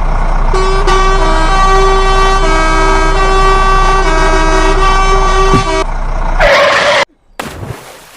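Vehicle horn sounding for about five seconds, its notes shifting in steps like a multi-tone musical horn, over a steady low hum. A short noisy burst follows, then the sound cuts off.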